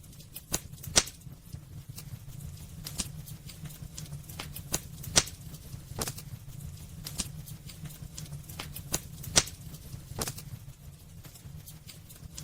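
Burning firewood crackling, with irregular sharp pops, a few of them louder, over a steady low rumble from the fire.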